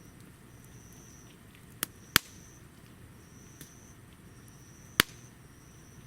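Wood burning in a small home-made wood stove, giving three sharp pops, two close together about two seconds in and one near the end. A high thin tone comes and goes in short stretches in the background.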